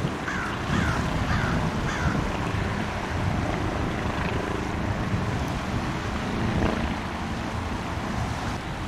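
A bird gives four short, falling calls about half a second apart, over a steady rumble of wind on the microphone and water.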